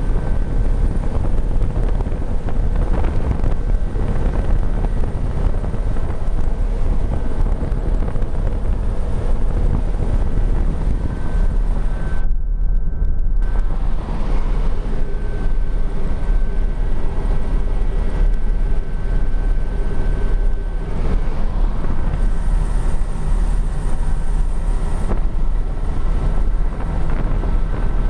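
Helicopter in flight, its engine and rotor running steadily with a strong deep rumble and thin steady high tones over it. The higher sounds drop out briefly about halfway through.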